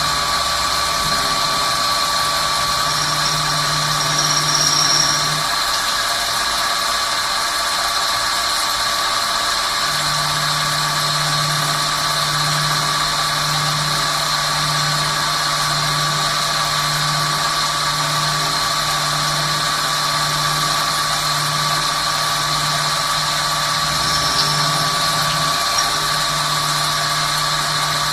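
Swiss-type CNC lathe running with a steady machine hum and a constant whine. A lower hum drops out after about five seconds and comes back about ten seconds in. Brief high squeals come around four seconds in and again near the end.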